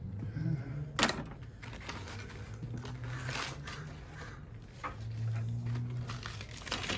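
Scrap copper and metal parts from a stripped welder being handled: a sharp knock about a second in, then scattered scraping and rustling.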